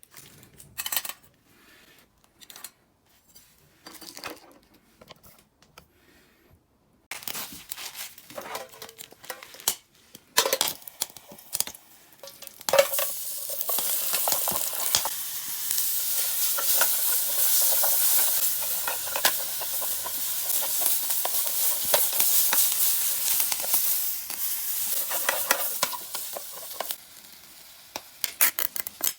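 Food sizzling and frying in an aluminium mess tin while it is stirred, the utensil clicking and scraping against the tin. A few light knocks come first; the sizzle starts about seven seconds in, grows loud and steady, and eases near the end.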